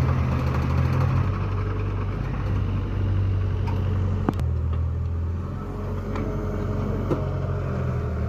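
Vehicle engine running steadily at a low, even pitch, with a sharp click about four seconds in and a lighter one near the end.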